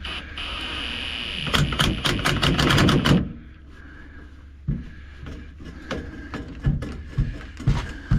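Impact wrench spinning up, then hammering in a rapid burst of blows for about a second and a half as it tightens a fastener, stopping abruptly about three seconds in; after that, scattered clanks of tools and metal parts.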